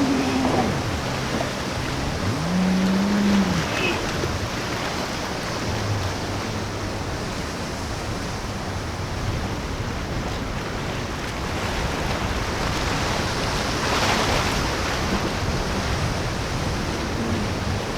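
Breaking surf and wind noise at a rough inlet, with a boat engine revving up and easing back down twice in the first few seconds. A brief louder rush of water noise comes about fourteen seconds in.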